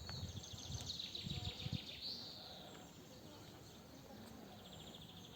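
Birds singing outdoors: quick high chirps and trills, with a rising note about two seconds in, over soft low thumps in the first two seconds.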